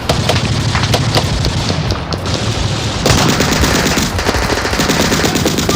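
Battle sound effects: continuous rapid machine-gun fire mixed with other gunshots.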